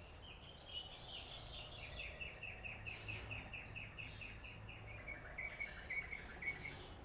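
Chestnut-capped thrush singing a long run of quick, evenly repeated notes that steps down in pitch twice over several seconds. A steady low hum runs underneath.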